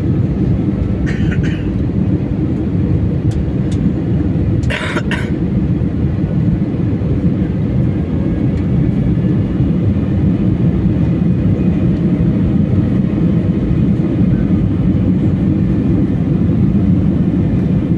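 Steady low roar of a passenger jet's engines and airflow, heard inside the cabin. Two brief hissing sounds come about a second and about five seconds in.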